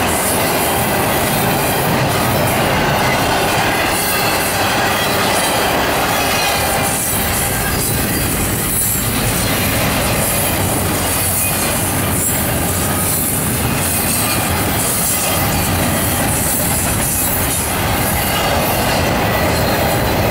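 Double-stack intermodal freight train's well cars rolling past: a steady, loud noise of steel wheels on rail, with a thin, high wheel squeal running through it and a few brief clacks.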